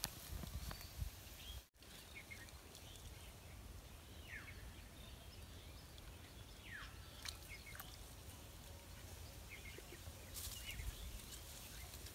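Quiet open-air ambience with a few faint, short bird chirps that fall in pitch, about four and seven seconds in.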